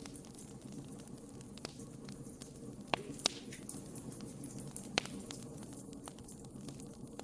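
Wood fire burning in a fireplace: a steady low rumble with scattered sharp crackles and pops, the loudest pops coming about three seconds in, twice in quick succession, and again about five seconds in.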